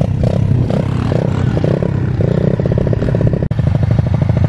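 Small minibike (pit bike) engines running at the start line, idling with repeated throttle blips. The sound cuts out for an instant about halfway.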